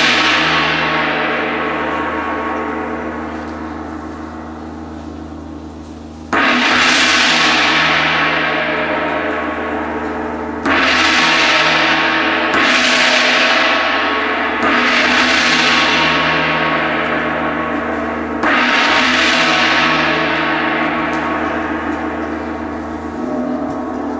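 A large gong struck five times at uneven intervals, each stroke left to ring and die away slowly, with the ring of an earlier stroke still sounding at the start.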